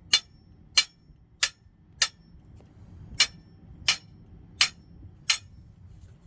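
A hand tool working on metal, giving a run of eight sharp, bright clicks at an even pace of about one every two-thirds of a second, with a slightly longer pause about halfway. It comes as a stuck coupler part is being worked loose on the grinder.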